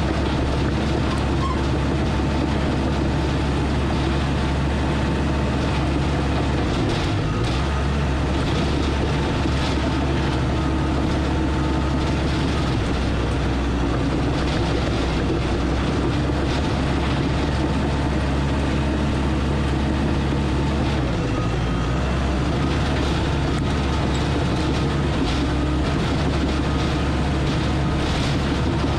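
Diesel engine of a piece of earthmoving equipment running steadily and working. Its note dips briefly about seven seconds in and again about twenty-one seconds in.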